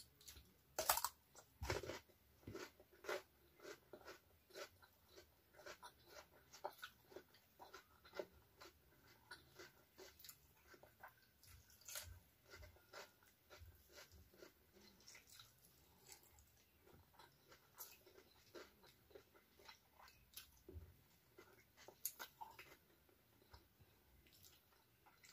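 Person chewing raw vegetables and leaves, with crunches and small wet mouth clicks coming irregularly, a few a second; the loudest come in the first two seconds.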